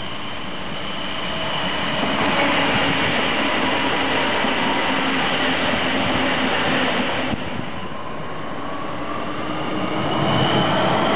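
Red regional passenger trains running past close by: the steady rumble of wheels on rail builds as the first train passes, then breaks off abruptly about seven seconds in. A second train then approaches, its running noise growing with a whine near the end.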